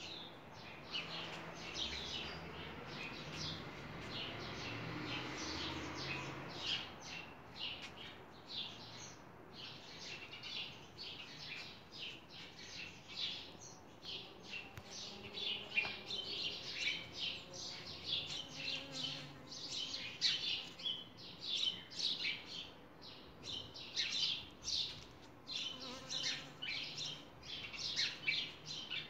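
Small birds chirping busily and continuously, many short, sharp, high chirps overlapping, as from several birds at once.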